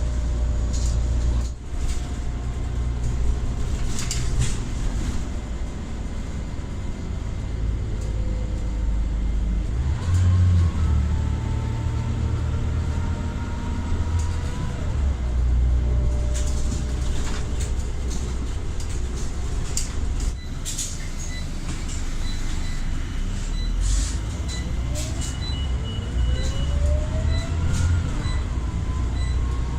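Scania Omnicity single-deck bus driving, its engine running under a low drone, with the whine of its ZF automatic gearbox rising and falling in pitch as the bus gathers speed and changes gear, among rattles and knocks. A short high beep repeats evenly through the last third.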